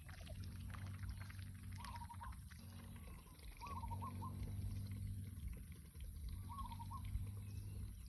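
Ducks dabbling and nibbling at chaya leaves in shallow water: a run of small wet splashes, dribbles and bill clicks, with a short chirping call three times. A steady low hum runs underneath.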